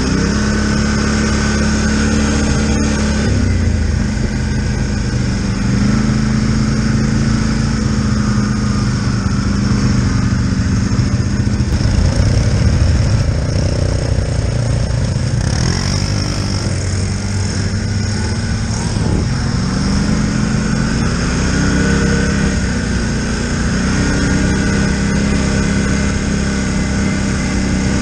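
Polaris Sportsman Highlifter 1000 ATV engine running while ridden along a trail. Its pitch keeps stepping up and down with the throttle, and it sounds rougher around the middle.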